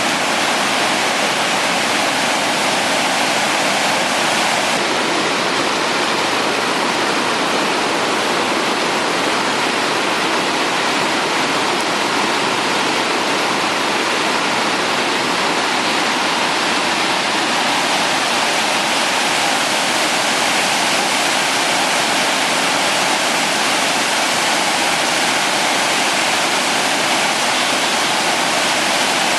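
Typhoon-swollen river in flood, its fast brown water rushing steadily.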